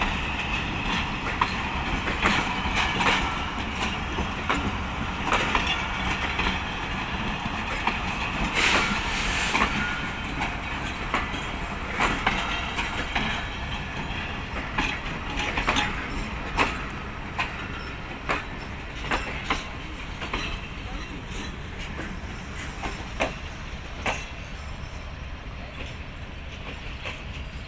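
Departing passenger train's wheels clacking over rail joints under a steady rumble. The knocks come at roughly one-second spacing later on, and the sound gradually fades as the train pulls away.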